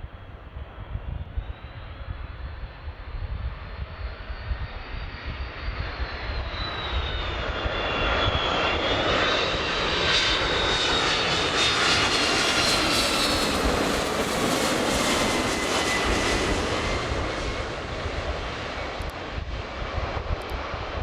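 Jet airliner on landing approach passing close by. Its engine noise and whine build over several seconds, peak, then fade, with the whining tones dropping in pitch as it goes past.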